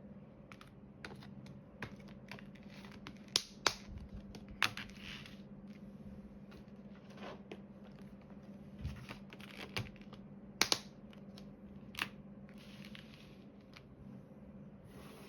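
Irregular small clicks and taps with a few brief rustles: diamond-painting hand work, a drill pen picking up and pressing resin drills onto the canvas. A faint steady hum runs underneath.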